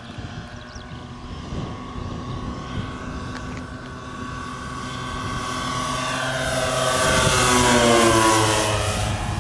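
Giant-scale radio-controlled Transall C-160 model aircraft flying past, its twin propellers' drone growing louder to a peak near the end and dropping in pitch as it passes, with wind rumbling on the microphone.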